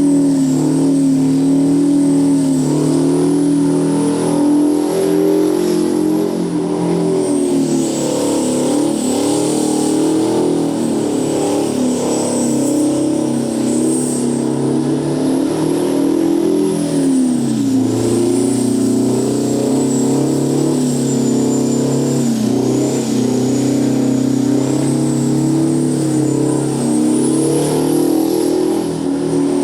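Detroit Diesel 16V92 two-stroke V16 diesel, twin-supercharged with four turbos, running hard at high revs in a truck burnout. Its pitch wavers, drops sharply a little past halfway, then climbs back.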